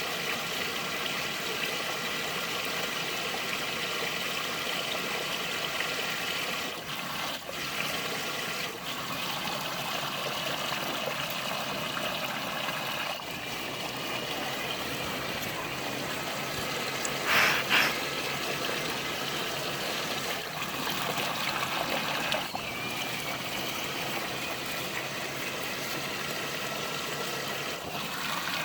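A radio-controlled truck churning through wet mud: a steady small electric motor whine over sloshing, trickling water, with a brief louder splash about seventeen seconds in.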